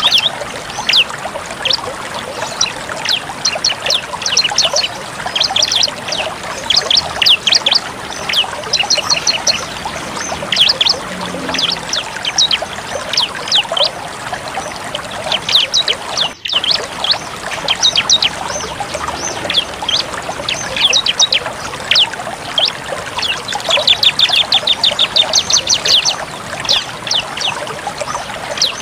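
Bar-winged prinia (ciblek) singing its full rapid song: fast runs of sharp, high chipping notes, repeated almost without pause, over a steady rushing background hiss. The sound drops out for an instant about halfway through.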